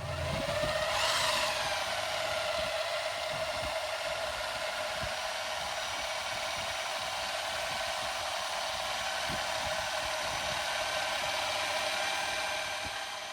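An electric workshop machine motor starting up, with a brief swoop in pitch about a second in, then running at steady speed with an even, high whine.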